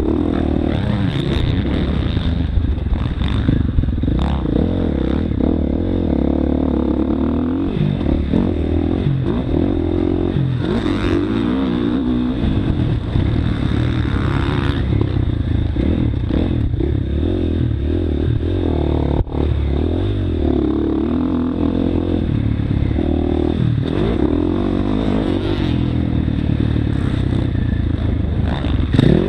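Motocross bike engine revving up and dropping off again and again as it is ridden, with clattering over the top.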